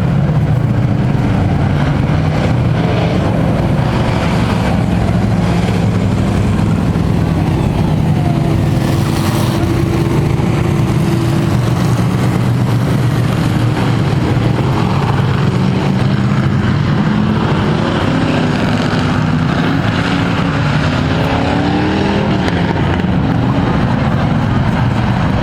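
Several Thunder Truck race trucks running laps on a dirt oval at pace speed, their engines steady, with pitches rising and falling as trucks pass.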